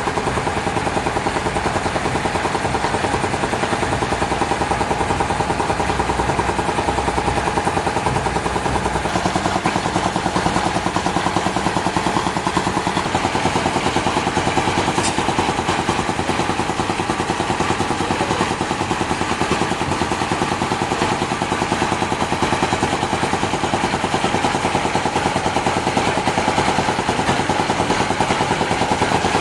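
Engine running steadily at a constant speed with a fast, even pulse; its tone shifts slightly about nine seconds in.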